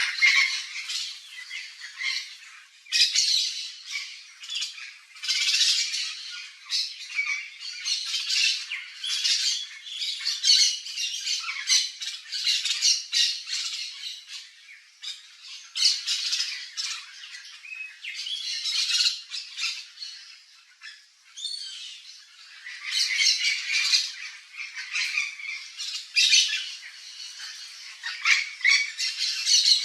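Yellow-faced parrots squawking: a run of short, harsh calls, one after another, with brief pauses.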